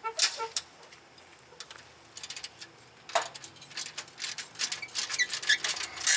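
Hand tools working on steering rack bolts: a ratchet wrench clicking in quick runs and metal tools clinking. There is a louder knock about three seconds in, and the clicking is densest in the second half.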